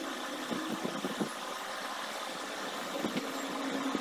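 A steady mechanical hum, like a motor running, with a few faint knocks.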